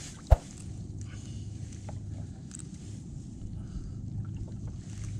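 A single sharp thump about a third of a second in, over steady low wind and water noise around a kayak at sea.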